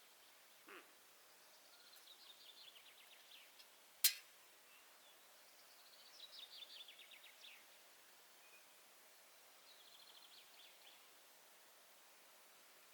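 A songbird singing faintly in the dawn quiet: three phrases of rapid notes, each falling in pitch, about two, six and ten seconds in. A single sharp click about four seconds in is the loudest sound.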